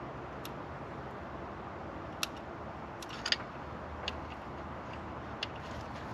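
Scattered small, sharp metallic clicks, about six spread irregularly, as tools work on the distributor's ignition points, over a faint steady background hiss.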